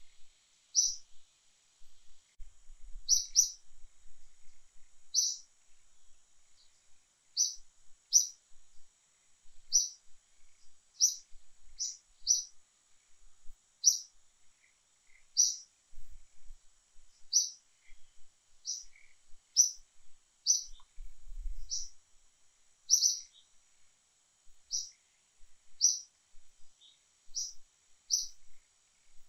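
A small bird chirping: short, high, sharp chirps repeating every second or two, some in quick pairs.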